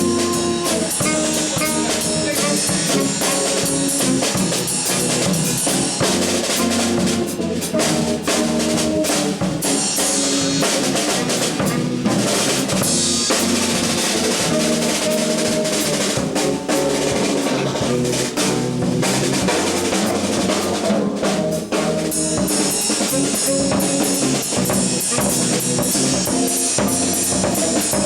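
Live jazz trio playing, with the drum kit to the fore: snare, bass drum and rim shots over sustained pitched notes from the other instruments.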